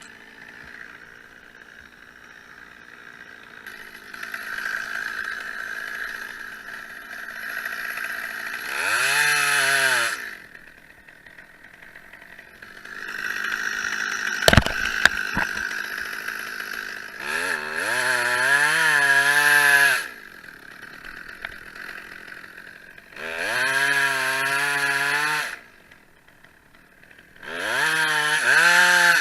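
Chainsaw idling, then revved up to full throttle four times in bursts of about two seconds. There is a single sharp knock about halfway through.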